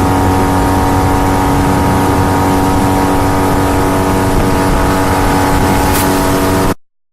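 A boat's outboard motor runs at a steady speed with no change in pitch, over a rushing hiss. It cuts off abruptly about seven seconds in.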